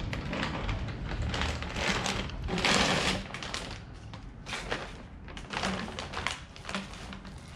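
Irregular taps, knocks and clanks of hand tools and metal exhaust parts being handled, with a brief louder rush of scraping noise about three seconds in.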